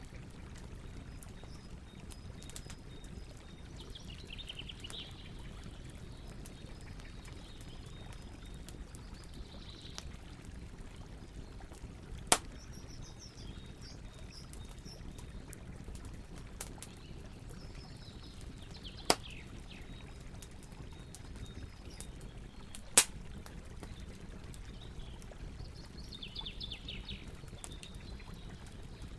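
Campfire wood crackling, with three sharp loud pops, over a steady low rush of river water. A bird calls several times in short, high, falling trills.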